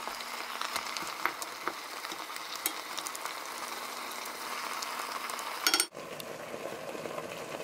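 Chicken breasts, onion and minced garlic sizzling in a hot pot as a fork flips and tosses them, with scattered light clicks of the fork against the pot. A quick run of louder clicks comes just before six seconds in, and the sizzle then carries on.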